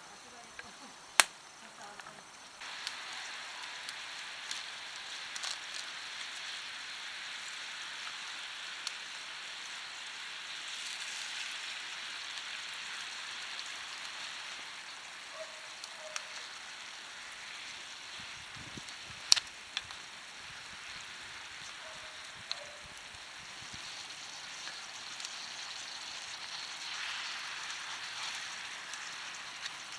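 Pork chops frying in a carbon steel skillet over a campfire: a steady sizzle starts suddenly about three seconds in. A few sharp clicks and pops cut through it, two of them loud.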